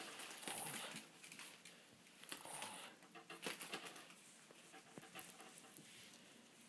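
Faint sounds of a dog moving about: scattered light taps and patters of its paws, with a few short breathy noises.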